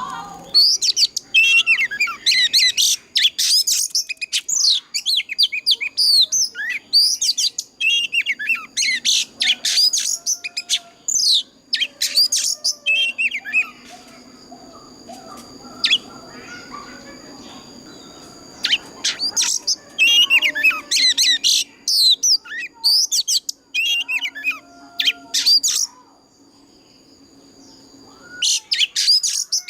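Oriental magpie-robin singing: rapid, varied whistled phrases of sliding notes, broken by pauses of a few seconds around the middle and near the end. A faint steady high whine runs underneath.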